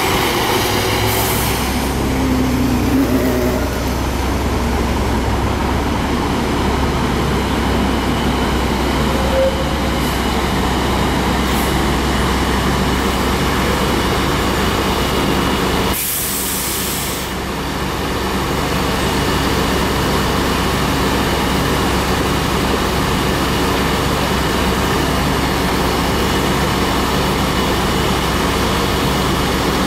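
Scania double-decker bus engine running steadily, heard from on board. About 16 seconds in comes a loud hiss of compressed air from the bus's air system, lasting about a second and a half, with a shorter, fainter hiss about a second in.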